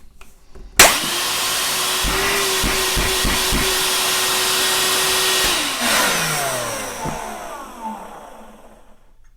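Ryobi 18V One+ cordless wet/dry vacuum switched on with a click. Its motor comes up to speed almost at once and runs with a steady whine and rushing air for about five seconds. It is then switched off and winds down, its pitch falling as it fades. The motor now starts, the switch fault cured.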